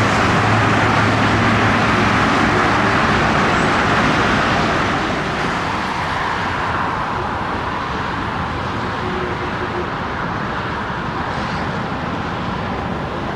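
Jet airliner engine noise, loud and steady, easing off a little about five seconds in.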